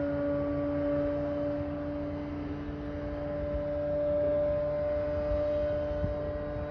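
A loud, constant drone: a steady hum with two strong low tones, one an octave above the other, over a low rumble.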